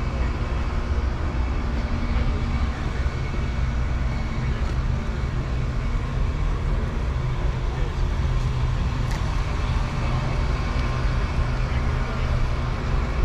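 Car engine running steadily, a low hum with faint voices in the background.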